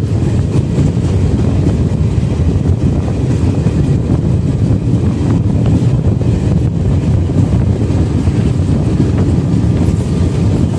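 Passenger train running at speed, a steady loud rumble of wheels on rails heard through an open coach window, with a few faint clicks from the track.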